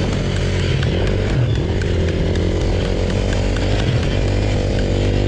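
Dirt bike engine running at a fairly steady speed, with small rises and dips in revs.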